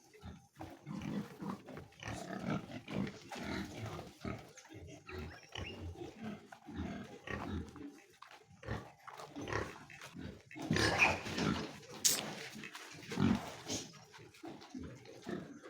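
Pigs grunting in a steady run of short, irregular grunts, with a louder, harsher stretch about eleven seconds in and a sharp click just after.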